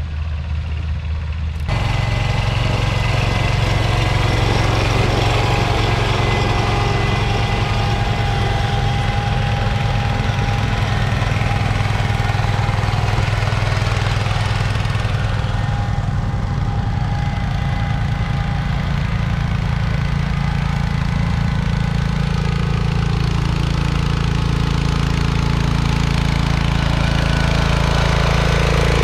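Garden tractor engine running steadily and loudly, close by; the sound changes abruptly about two seconds in.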